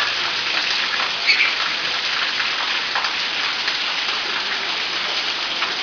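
Water from a shower head spraying down in a steady rain-like patter, with one brief louder splash about a second in.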